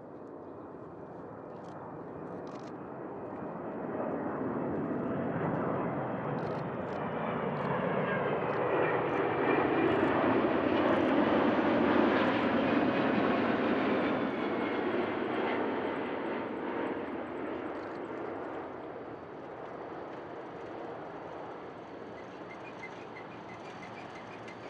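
Boeing 777-200ER twin-engine jet airliner on landing approach, its engine noise swelling to a peak about halfway through as it passes, then fading away, with a faint high whine over the rumble.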